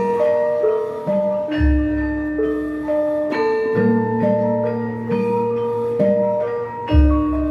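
Javanese gamelan ensemble playing. Bronze metallophones sound a melody of sustained, ringing pitched notes, with two deep low strokes, one about a second and a half in and one near the end.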